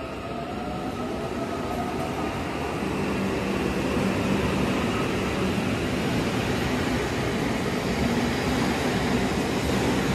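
Auckland AM-class electric multiple unit running past a station platform: a dense rolling rumble of wheels on rail with a steady low motor hum, growing louder over the first few seconds and then holding level as the carriages go by.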